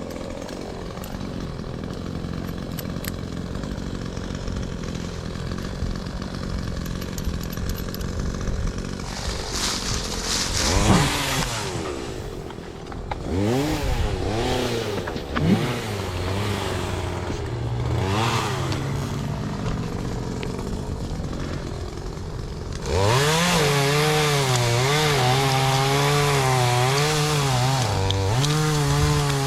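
Chainsaw engine idling, revved up and down several times from about ten seconds in, then held at high speed and louder from near the end, its pitch wavering.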